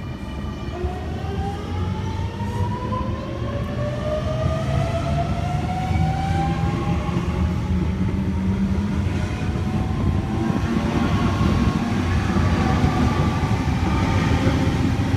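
Sydney Trains Millennium (M-set) electric train departing: the traction motors whine, rising steadily in pitch as it accelerates away, over a wheel and track rumble that grows louder.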